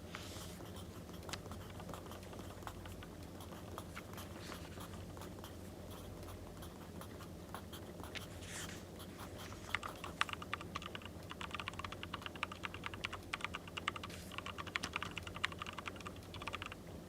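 Pen writing on paper in rapid, scratchy tapping strokes, getting busier about ten seconds in. Underneath are faint scattered crackles of a wood fire.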